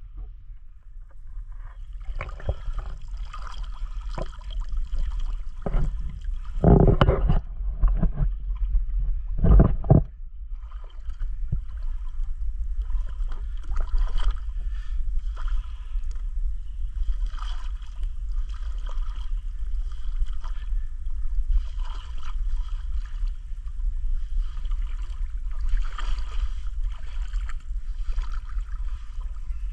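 River water gurgling and lapping, over a steady low rumble on the microphone. Two loud, deep bursts of rumble come about 7 and 10 seconds in.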